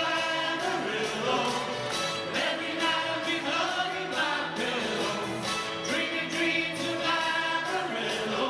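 Choir singing in unison and harmony over a live band, with a steady beat of about two a second.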